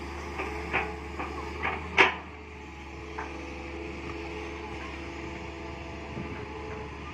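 Mini excavator engine running steadily. Over it come a quick series of sharp knocks in the first two seconds, the loudest about two seconds in, and one more a second later.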